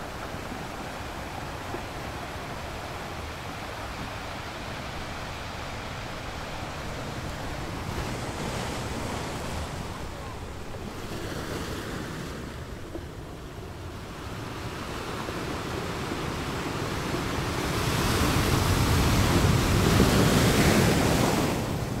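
Ocean surf washing onto a sandy beach: a continuous rush that swells and ebbs, with the biggest surge of water near the end.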